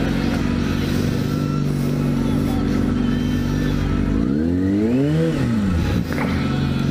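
Kawasaki Ninja ZX6R inline-four motorcycle engine running at low, steady revs. About four seconds in, a single throttle blip sends the pitch up and back down within under two seconds.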